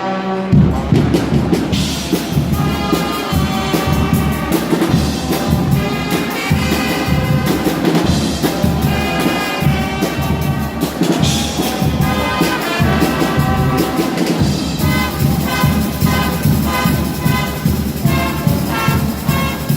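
Guggenmusik carnival band playing loudly: massed trumpets and trombones over a steady, driving drumbeat.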